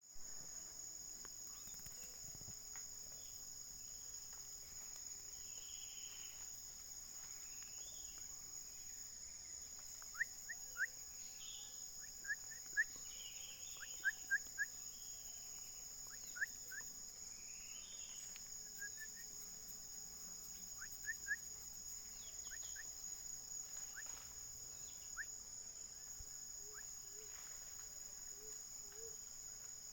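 Short, sharp whistled bird notes in quick groups of two or three, repeated several times through the middle of the clip, over a steady high-pitched drone of insects.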